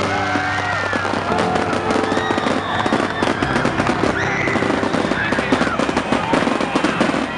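Fireworks bursting and crackling in rapid succession, growing denser about three seconds in. Music plays underneath at the start.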